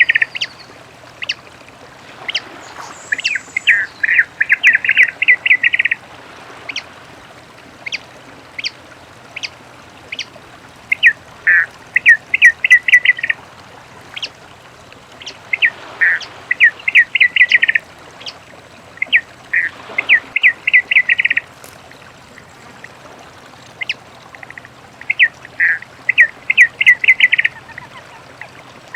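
Papa-piri (many-colored rush tyrant) singing: about five phrases, each a quick run of sharp, high notes lasting around two seconds, with pauses of a few seconds between them.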